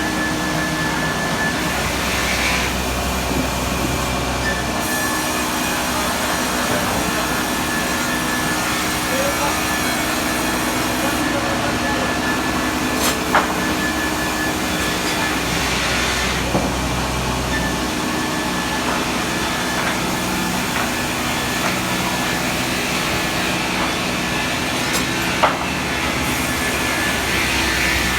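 Sawmill machinery running and sawing timber: a steady machine noise with a low hum that swells and fades in a cycle about every twelve seconds. Two sharp knocks, about halfway through and near the end.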